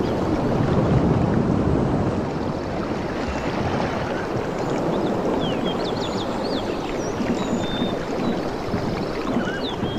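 Ocean waves washing in, swelling about a second in, with small birds chirping in quick short calls through the second half.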